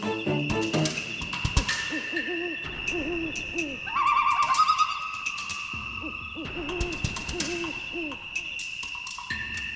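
Owl hooting in several runs of short, wavering hoots, over a steady high-pitched whine and many sharp clicks. A higher trilling sound comes in briefly around the middle.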